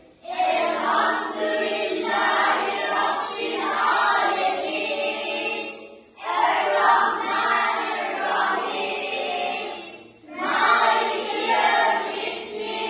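A group of voices singing together in sustained phrases, with short breaths between phrases about six seconds in and again near ten seconds.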